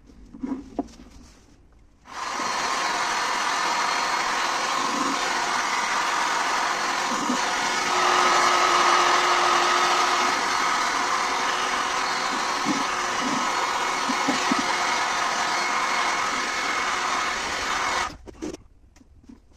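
A motor-driven machine with a steady whirring hiss switches on about two seconds in, runs evenly and grows somewhat louder partway through, then switches off about a second and a half before the end.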